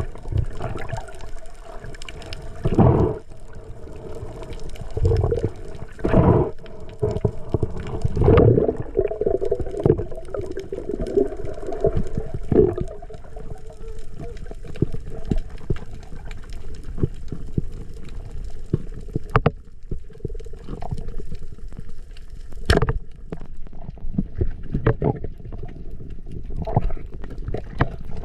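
Underwater sound during a dive: water rushing and gurgling, with several louder rushes of bubbles and a steady hum in the first half.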